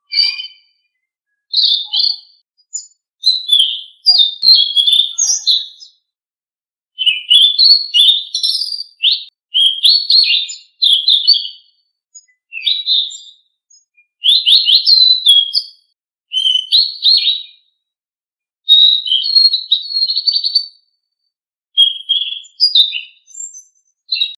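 Selendang biru songbird singing in quick, high chirping and trilling phrases, each a second or two long with short pauses between, a recording made to coax a caged bird of the same kind into song.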